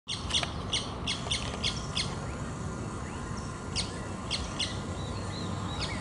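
A mixed flock of small birds calling in short, sharp notes, about three a second, with a pause of over a second in the middle before the calls resume. The birds are gathering around what is probably a predator on the ground, typical of mobbing.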